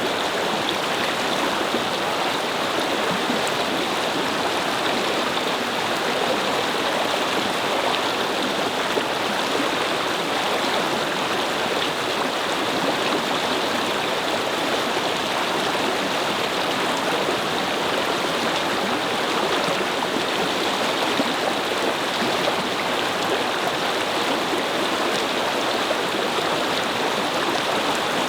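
A brook's water flowing and babbling steadily over stones, with an even rushing wash.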